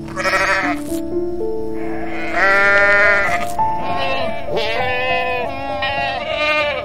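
Goats bleating: about four wavering calls one after another, over soft background piano music.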